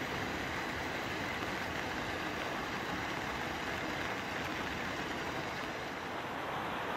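Local passenger train running on the line, a steady rushing noise with no distinct wheel beats.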